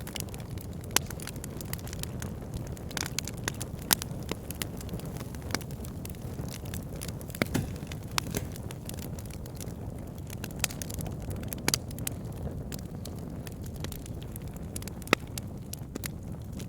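Wood fire burning in a fireplace: a steady low rumble of the flames with irregular crackles and sharp pops from the burning logs, a few of them louder.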